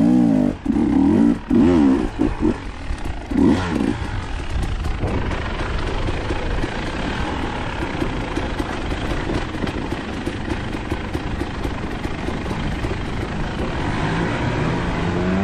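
Dirt bike engine revving in a few short, wavering blips for the first few seconds, then a steady, noisy drone while riding, with the engine pitch climbing again near the end as it accelerates.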